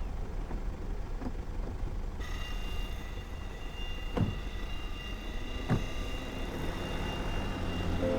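A steady low rumble, with two sharp knocks in the middle; music comes in at the very end.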